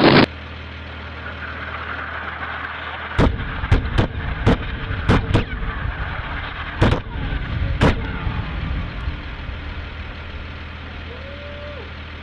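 A loud blast noise cuts off abruptly at the start. Then comes a steady low engine-like rumble, with eight sharp gunshot-like reports in an irregular run from about three to eight seconds in.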